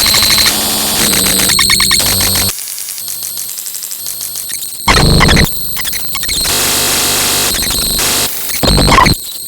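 Loud harsh electronic noise: static hiss mixed with buzzing and shrill steady tones, switching abruptly from one harsh sound to the next every second or two.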